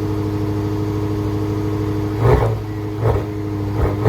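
Maserati Levante GTS's 3.8-litre twin-turbo V8 idling steadily, then blipped with short throttle stabs: one about two seconds in and two more, each about a second apart.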